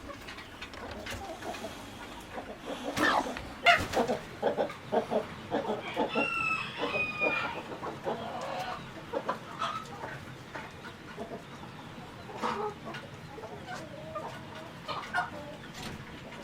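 Domestic chickens clucking in a run of short calls. One longer, drawn-out call comes about six seconds in, with a few sharp clicks scattered through.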